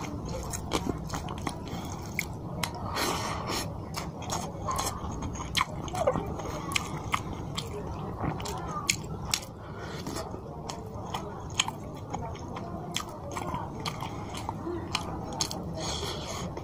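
A person eating fish curry and rice by hand and chewing, close to the microphone, with many short sharp wet mouth clicks throughout.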